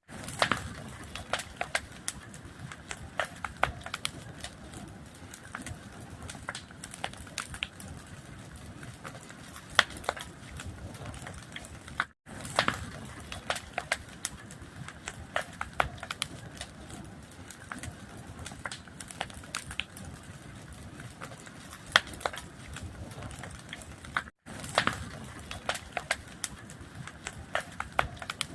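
Fire crackling: a steady rushing hiss with many sharp, irregular crackles and pops. It is cut twice by a brief drop to silence, about a third and two-thirds of the way through.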